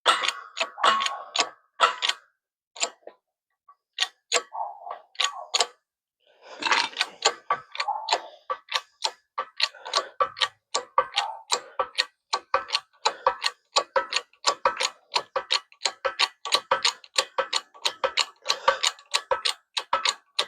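A long run of sharp metallic clicks from hand tools working on the U-joint press. They come in quick clusters at first, thin out for a moment, then settle into a steady ticking of about three to four a second.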